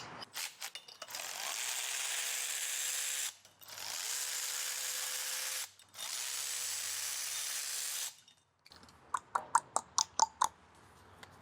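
Cordless power tool with a socket running in three steady spells of about two seconds each, backing the spark plugs out of a GM 3.6 V6. Near the end comes a quick series of about ten light metallic clicks.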